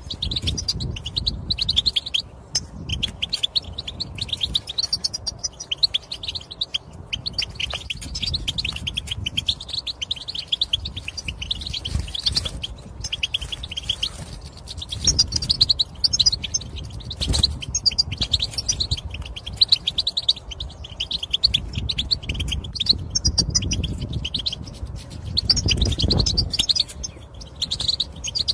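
European goldfinch giving rapid chattering calls and twittering song in quick trilled phrases, with short pauses between them. These are the excited mating and readiness calls that keepers play to stimulate male goldfinches to sing. A low rumble runs underneath.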